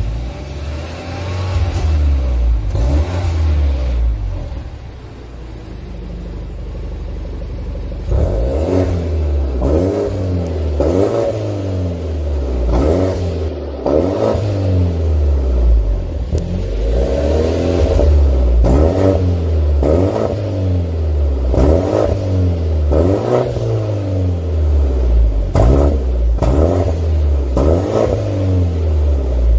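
BMW 420i's turbocharged four-cylinder engine through an aftermarket valved exhaust, revved a few times, settling to a steadier idle for a few seconds, then blipped repeatedly in quick rises and falls of revs.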